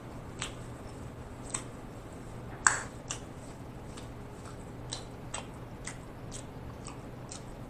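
A person chewing food with the mouth closed: a scattering of short, soft wet clicks and smacks at an uneven pace, the loudest a little under three seconds in.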